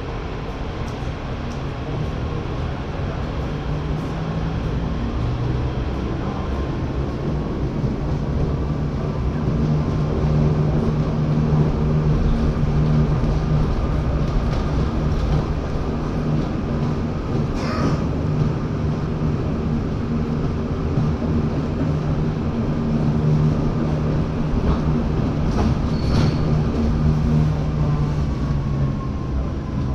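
Lausanne-Ouchy rack-railway metro train running uphill, gathering speed over the first ten seconds, then running steadily with a low motor hum over the wheel rumble. Brief high squeals sound about two-thirds of the way through and again near the end.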